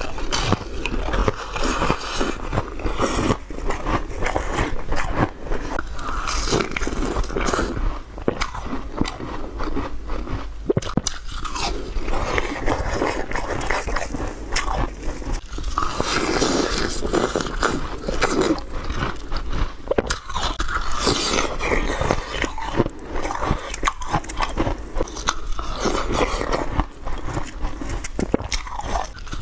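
Ice being bitten and chewed close to the microphone: a continuous run of crisp crunching and crackling as the ice breaks between the teeth.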